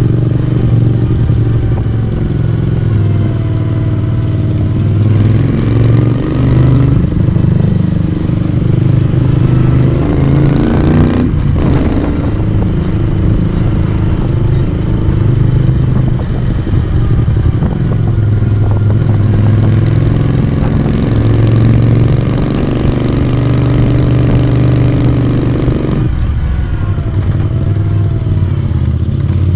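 Moto Guzzi V35 café racer's V-twin engine and exhaust running under way, the engine speed rising and easing off as the bike is ridden, with one brief drop in the note about a third of the way through.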